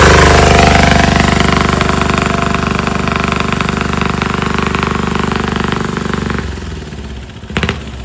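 Small turbocharged diesel engine of a home-built chopper motorcycle running with a rhythmic diesel clatter, growing gradually quieter, then falling away about six and a half seconds in. A short sharp knock near the end.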